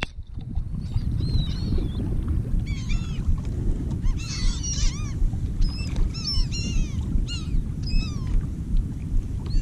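A flock of birds calling while feeding over a school of fish: many short, arched calls overlapping and repeating, from about a second in. A steady low rumble runs beneath them.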